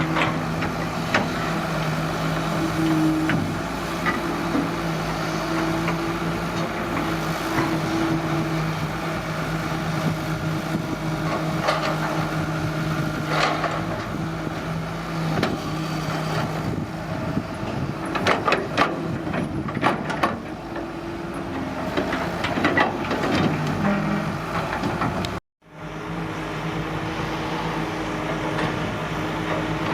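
Diesel engine of an excavator running at a steady pitch, with bursts of sharp metallic clanks and knocks from the machine working. The sound cuts out for a moment near the end, then the engine carries on.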